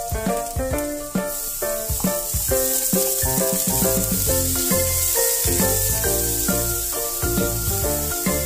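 Minced ginger and garlic sizzling in hot oil in a non-stick frying pan while a spatula stirs them, under background music with a quick, plucked-sounding melody.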